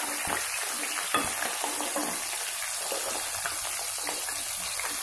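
Potato wedges sizzling steadily in hot oil in a steel kadai, with a metal spatula scraping and knocking against the pan a few times in the first couple of seconds.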